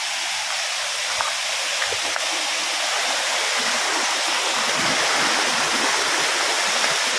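Water rushing steadily over a small rocky cascade in a forest stream, a continuous hiss that grows a little louder toward the end.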